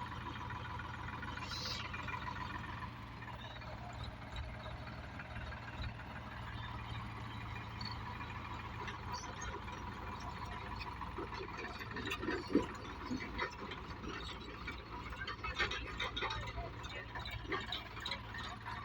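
Tractor diesel engine running steadily, a low drone, with faint voices in the first few seconds and scattered clicks and rattles.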